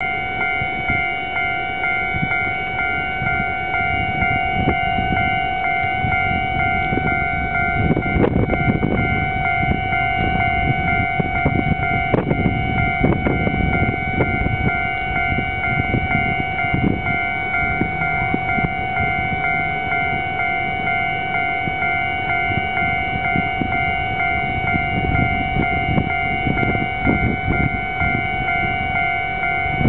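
A steady tone with several overtones, held unchanged in pitch, over a rough rumbling noise.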